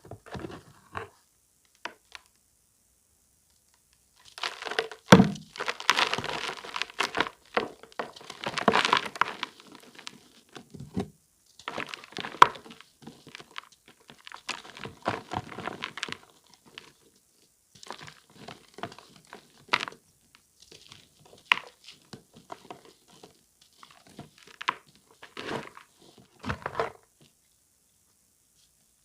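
A pressed block of reformed charcoal powder being crushed and crumbled, giving dry crunching and crackling in irregular clusters with short pauses between.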